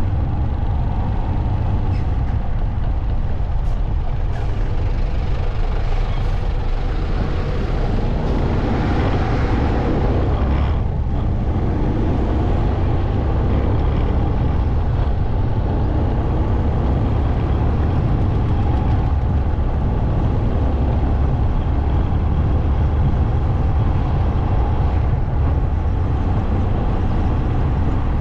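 Motorcycle ride at steady speed: a continuous low rumble of engine and road noise, swelling briefly near the middle.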